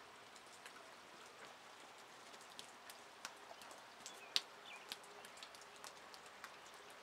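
Light rain falling, faint and steady, with scattered drops ticking sharply on hard surfaces; one louder drip about four seconds in, followed by a brief high chirp.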